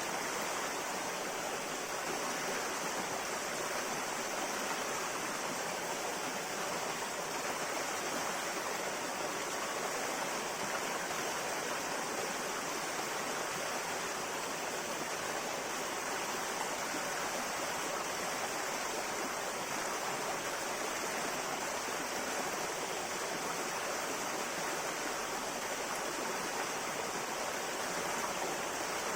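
River water flowing in a steady, even rush that never lets up.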